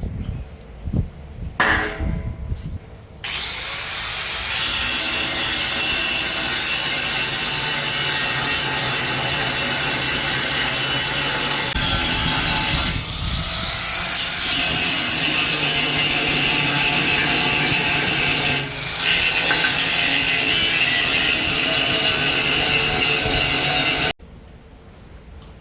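A handheld power tool working a surface, making a loud, steady abrasive noise. It starts a few seconds in, eases off briefly twice and cuts off suddenly near the end.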